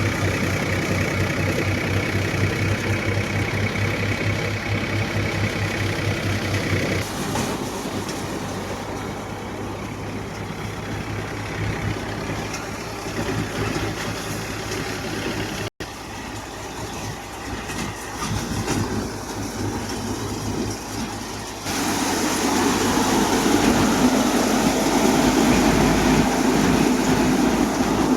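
Tractor engine running steadily while driving a multi-crop paddy thresher, the engine's hum mixed with the thresher's mechanical whirring. The sound changes abruptly about a quarter of the way in, cuts out for an instant near the middle, and grows louder and noisier in the last quarter.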